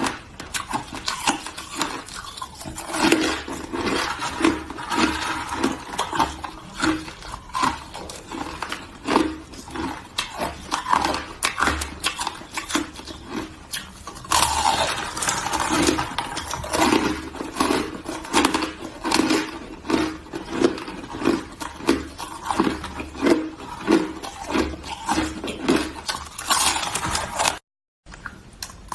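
Hard shaved ice being crunched and chewed close to the microphone: dense crackling crunches over a steady chewing rhythm of about two bites a second. The sound cuts out for a moment near the end.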